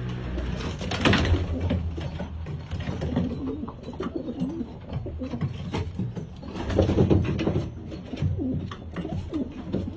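Domestic pigeons cooing, several birds calling over one another in repeated low coos, louder about a second in and again around two-thirds of the way through.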